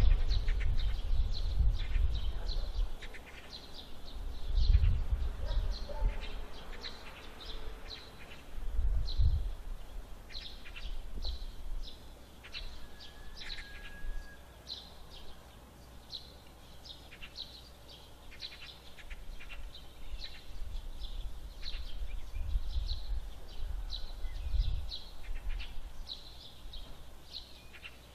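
A bird chirping over and over, short high chirps about every half second, with dull low thumps and rumbles now and then, the strongest in the first few seconds.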